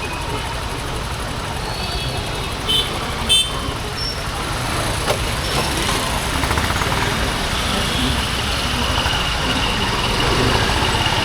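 Honda H'Ness CB350's single-cylinder engine and exhaust running steadily under way, with road and traffic noise around it. Two short horn toots about three seconds in.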